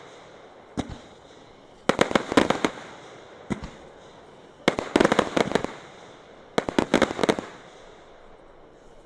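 Fireworks going off in quick volleys of sharp bangs: three rapid strings of reports about two and a half seconds apart, with single bangs in between.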